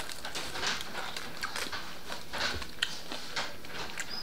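Close-up chewing of a crispy fried chicken drumstick: irregular wet clicks and crackles of biting and chewing.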